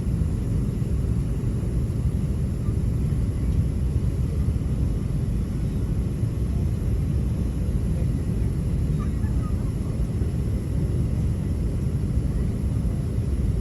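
Steady low rumble inside the passenger cabin of an Airbus A380 on the ground, with a faint high hiss from the cabin air over it.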